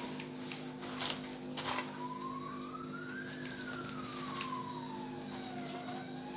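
Wireless calling bell sounding a siren-like tone that glides slowly up, down and up again, with a few sharp clicks from handling along the way.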